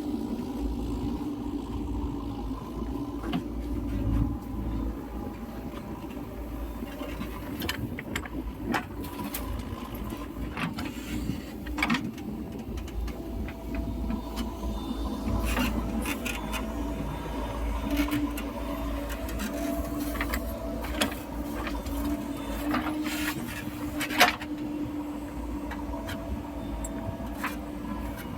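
JCB 3DX backhoe loader's diesel engine running steadily under load, with irregular knocks and clanks throughout, the loudest about 24 seconds in.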